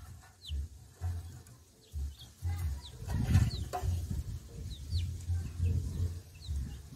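Small birds chirping in short, high, falling notes, over irregular low dull thumps and rustling.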